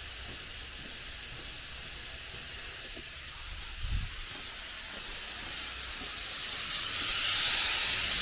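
Air hissing steadily out of the vehicle's tires through a Morrflate multi-tire hose kit as they are deflated, the hiss growing louder over the last few seconds. A light knock about four seconds in.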